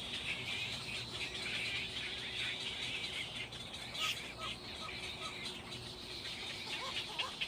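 Small birds chirping: short, separate calls a few seconds in and quick rising chirps near the end, over a steady high-pitched chorus.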